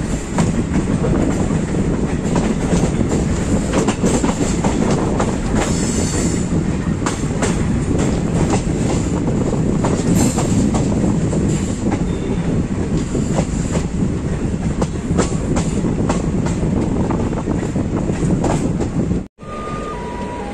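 Passenger train of ICF coaches running along the track: a steady rumble with wheels clattering over rail joints. Near the end it cuts off abruptly, and a quieter stretch follows with three short tones, each a step lower in pitch.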